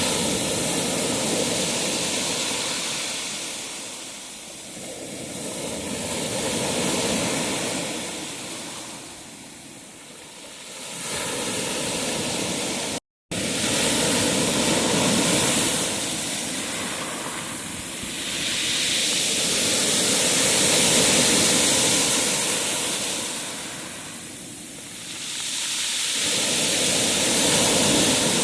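Sea waves breaking and washing up a shore, the surf swelling and fading every few seconds. It cuts out for a moment about halfway through.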